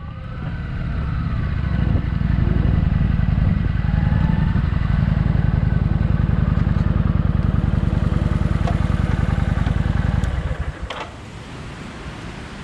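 Kawasaki Vulcan motorcycle engine running on the road, a loud steady rumble of rapid firing pulses. About ten seconds in it drops to a much quieter level.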